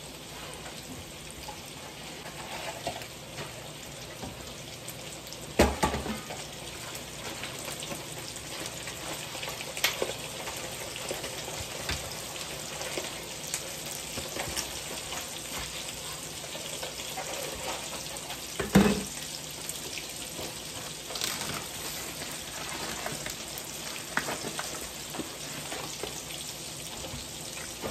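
Food frying in a pan, a steady sizzle with fine crackling, broken by two sharp knocks, one about six seconds in and one about two-thirds of the way through.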